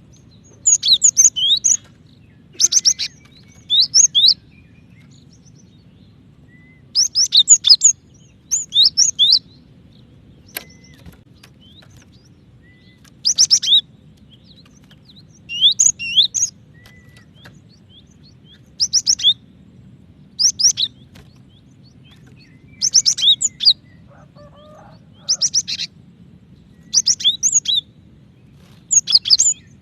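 Female cinereous tit (gelatik batu) calling a male: short clusters of quick, high chirps, each cluster under a second long and repeated every couple of seconds with brief pauses between.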